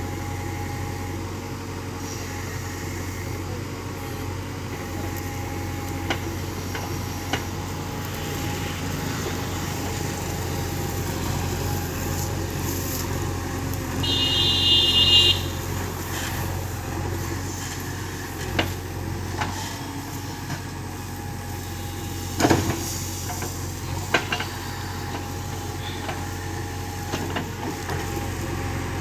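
JCB backhoe loader's diesel engine running steadily while it digs, with scattered metallic knocks and clanks from the bucket and arm, the sharpest a little over two-thirds of the way through. About halfway through, a short high-pitched tone sounds for about a second.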